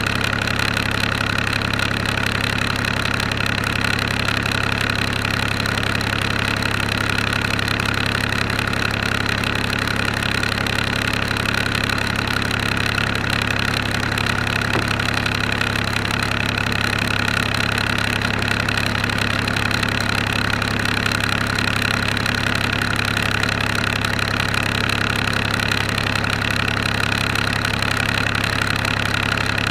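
An engine running steadily at one constant speed, with an even, unchanging hum.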